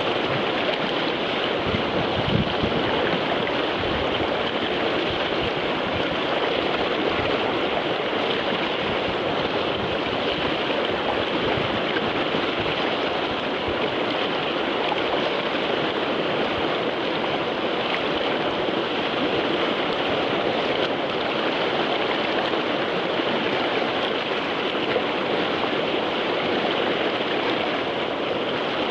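River whitewater rushing steadily through a rapid, with a low thump about two seconds in.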